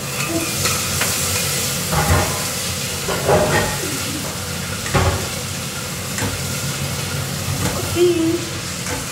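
Food sizzling and frying in a metal pot on a gas burner while a wooden spatula stirs it, with a steady hiss and a few knocks and scrapes of the spatula against the pot, the sharpest about five seconds in.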